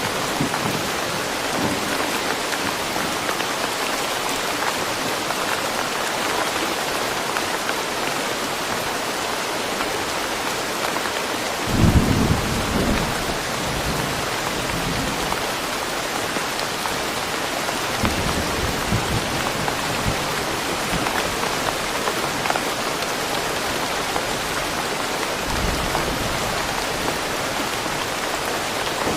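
Steady rain falling in a forest, an even hiss of drops, with a short low rumble about twelve seconds in and fainter ones later.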